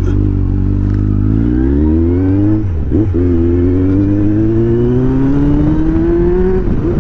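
Motorcycle engine accelerating. Its pitch climbs, drops at a gear change about three seconds in, then climbs again in a long pull before the throttle eases off near the end.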